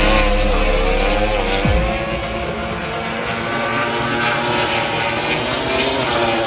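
Motorcycle engines running steadily, their pitch wavering slightly.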